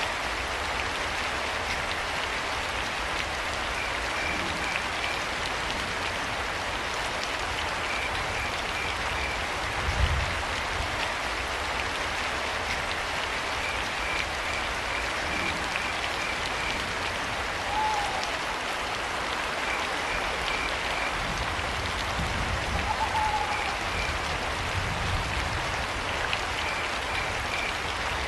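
Steady rain with crickets chirping in short trains of high pulses every few seconds. Two brief calls, near the middle and about two-thirds of the way through, and a few low rumbles rise above the rain.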